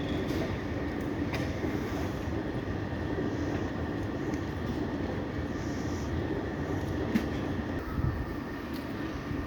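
Commuter train running on the rails in a station, a steady rumble with a few sharp clicks, the loudest about seven seconds in.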